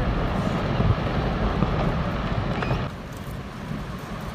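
Glacier ice collapsing into the sea: a heavy, steady rumble and rush of falling ice and water, which drops off abruptly about three seconds in to a quieter wash of water and wind.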